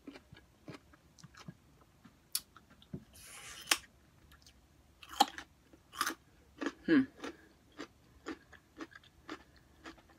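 Close-up chewing and wet mouth smacks of someone eating spicy ramen noodles, in many short irregular clicks, with a brief hiss about three seconds in.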